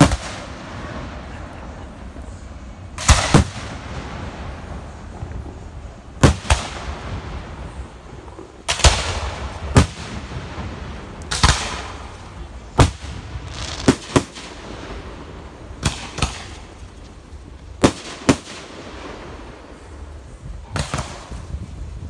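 Fireworks display: aerial fireworks bursting with sharp bangs every second or two, several coming in quick pairs, some trailing off afterwards.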